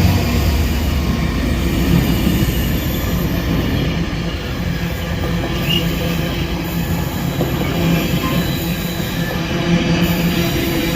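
Freight train wagons rolling steadily past on the track, just after the locomotive has gone by.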